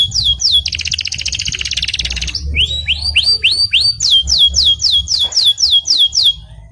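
Domestic canary singing: runs of rapid falling whistled notes, then a fast buzzing trill lasting about two seconds, then a series of rising notes and more quick falling notes, the song breaking off near the end.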